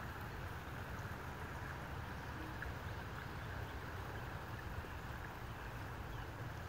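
Creek water flowing gently, a faint steady rush.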